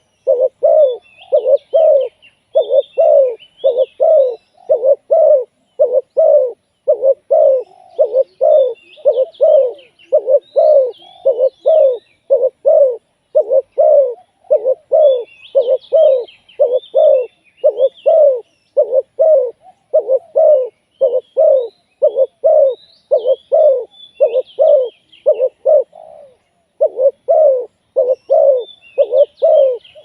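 Spotted dove cooing over and over in a steady run of low coos, about one and a half a second. Small birds chirp higher up now and then.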